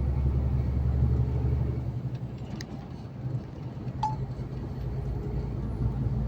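Inside a moving truck's cab: steady diesel engine drone and road rumble, easing off a little about two seconds in. A single short, high ping sounds about four seconds in.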